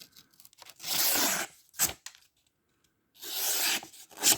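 A freshly sharpened 14C28N-steel knife blade slicing through paper twice. Each cut is a rasping swish followed by a short sharp snap.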